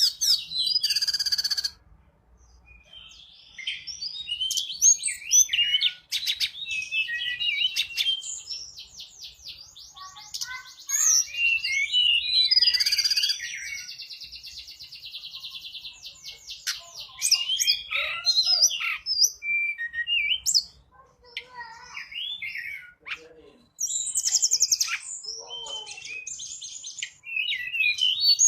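Tledekan gunung singing a lure song: a busy run of varied high chirps, fast rattling trills and sweeping whistled notes, delivered in phrases with short pauses between them.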